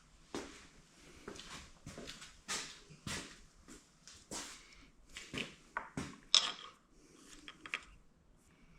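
Irregular small clicks and scrapes of hands working a plastic wiring connector loose on a dirt bike, with one sharper click a little after six seconds in.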